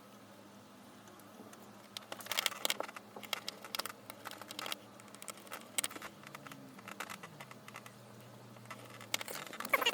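Small, sharp clicks and taps of a screwdriver and tiny screws on a smartphone's plastic frame as the back screws are fitted, in irregular clusters. A short pitched cry sounds right at the end.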